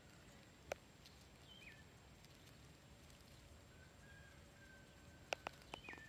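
Faint birdsong: a few short chirping calls and a long thin note, over quiet outdoor background. A few sharp clicks stand out, one just under a second in and three close together near the end.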